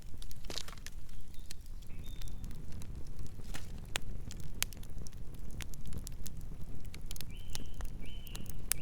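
Campfire crackling: irregular sharp pops and snaps of burning wood over a steady low rumble of the flames, with a few short high-pitched tones near the end.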